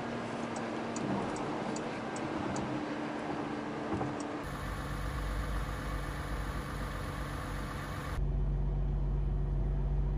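2021 Porsche Cayenne Coupe at motorway speed, heard from inside the cabin: steady engine and road noise, with a run of light ticks, about three a second, early on. About four seconds in, it changes to the car's six-cylinder engine idling, heard from outside, a steady low exhaust rumble.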